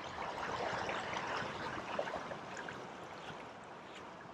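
Water running and trickling, fading slowly over the last couple of seconds.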